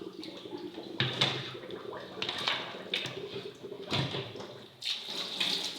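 Raw chicken pieces being washed by hand in water: irregular sloshing and splashing, broken by several sharp knocks.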